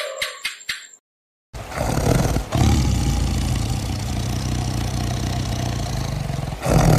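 A big cat growling, a loud, low, rough rumble that starts about a second and a half in and goes on, swelling near the end. Before it, a short jingle of evenly spaced ticks and bell-like tones stops about a second in.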